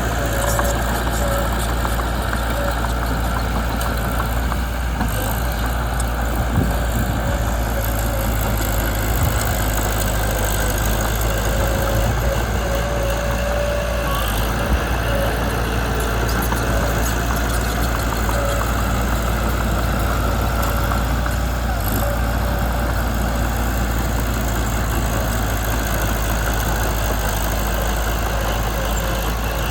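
Mitsubishi BD2 bulldozer's diesel engine running at a steady speed.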